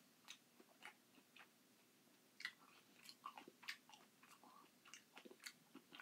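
Quiet chewing and lip-smacking on a mouthful of canned crushed pineapple, with scattered small clicks of a plastic spoon scraping in the tin can.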